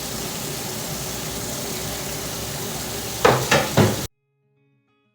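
Food sizzling on a charcoal grill as a steady hiss. Near the end come three sharp knocks, like a utensil striking the grill, then the sound cuts off abruptly.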